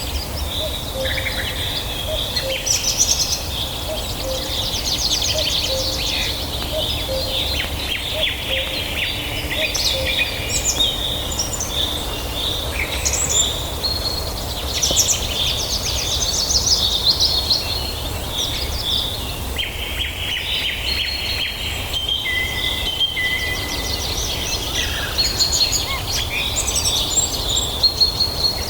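Several songbirds singing and calling at once: a dense, overlapping chorus of chirps, rapid trills and short whistles, over a steady low rumble.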